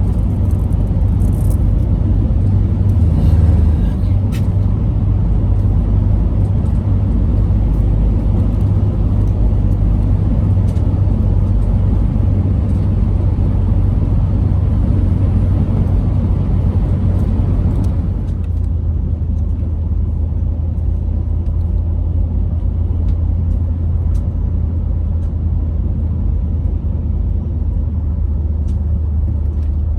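Car driving on the road: a steady low rumble of road and engine noise. The higher hiss drops away about two-thirds of the way through.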